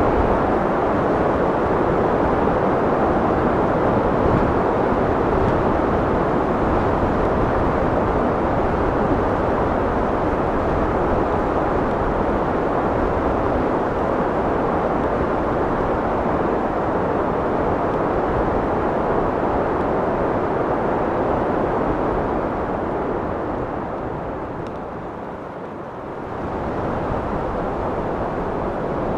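Steady wind roaring, easing to a lull about 25 seconds in and then picking up again.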